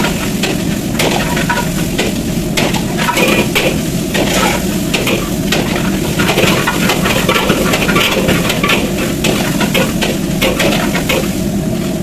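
A metal spatula scraping and clanking against a wok as food is stir-fried, with steady sizzling underneath; the clanks come quick and irregular throughout.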